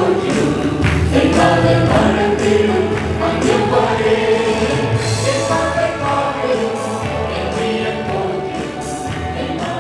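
Gospel music with a choir of voices singing over a steady beat, fading slightly toward the end.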